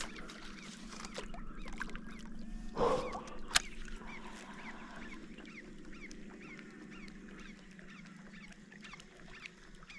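A chorus of many short, repeated animal calls. A louder rustle comes about three seconds in, followed by a sharp click.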